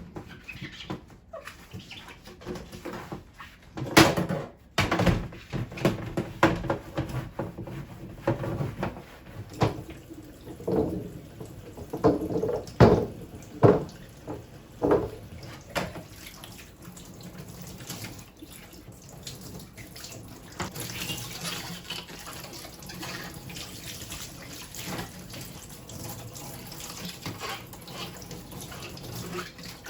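Knocks and clatter of things being handled at a kitchen sink, then tap water running steadily from about two-thirds of the way in.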